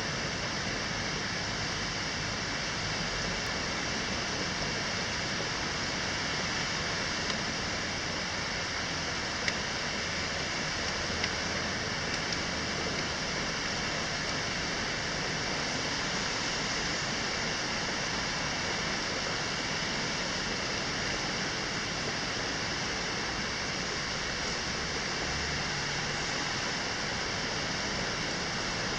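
Steady, even hiss of falling rain, with a few faint ticks.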